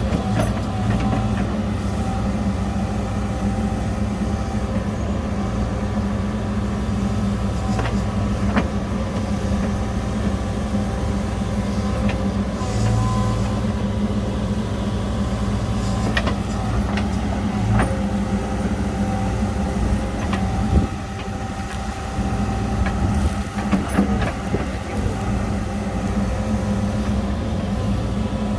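Heavy diesel engine of earthmoving machinery running steadily, with scattered sharp metallic knocks and clanks. The engine sound dips briefly about three quarters of the way through.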